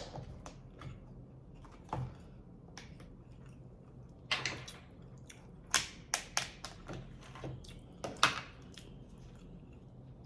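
Close-miked eating: a person chewing food, with scattered wet mouth clicks and smacks. There are louder smacking sounds about four and a half seconds in and again about eight seconds in.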